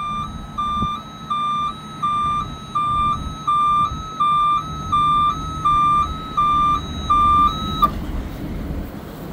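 Bucket truck's outrigger warning alarm sounding a steady two-tone beep, switching between a lower and a higher pitch about every 0.7 s, then cutting off suddenly near the end. The truck's 6.7L Power Stroke diesel runs underneath.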